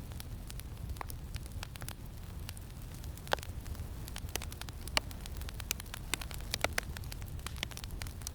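Campfire crackling with scattered sharp pops, the loudest about three and five seconds in, over a steady low rumble of wind.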